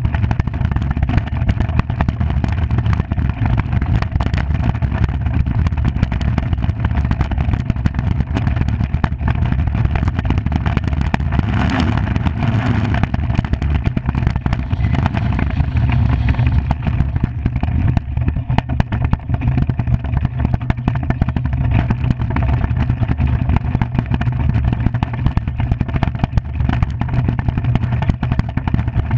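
Skimmer 45 iceboat's runners on the ice, a steady loud rumble with many sharp clicks and ticks throughout.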